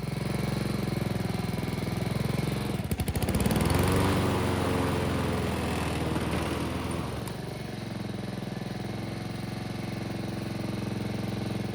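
Honda lawn mower engine running steadily, being tested to see whether a newly fitted drive part engages properly. About three to four seconds in it briefly gets louder and its pitch rises and falls before settling back.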